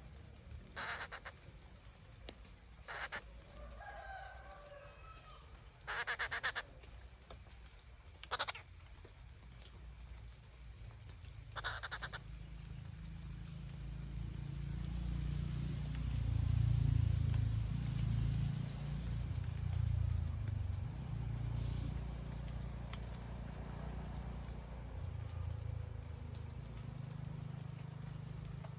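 Rufous treepie giving about five short, harsh calls in the first twelve seconds, one near the middle longer than the rest, over a steady high chirring of crickets. A low rumble builds up in the second half and stays.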